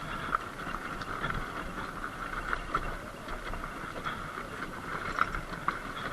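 Sur-Ron Light Bee X electric dirt bike ridden slowly over rocky debris: a steady motor whine with scattered short knocks and crunches from the tyres and chassis on the rocks.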